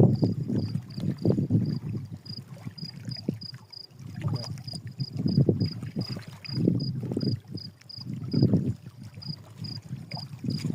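Wind buffeting the microphone and water noise rising and falling in gusts. Through it runs a faint high chirp repeating about three times a second, which pauses briefly near the end.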